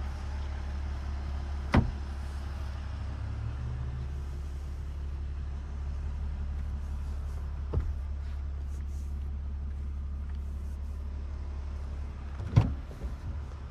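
6.7-litre Cummins inline-six turbo diesel idling, a steady low hum heard from inside the cab. Three sharp clicks or knocks of interior parts being handled break through it: one about two seconds in, one midway, and the loudest near the end.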